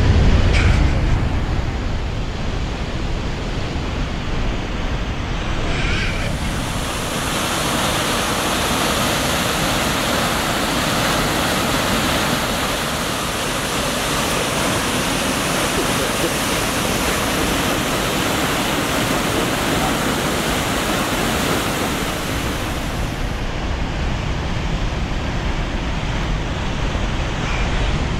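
Rushing water of the Maligne River in the canyon, a steady roar that turns hissier from about six seconds in until a few seconds before the end, with some wind rumble on the microphone at the start.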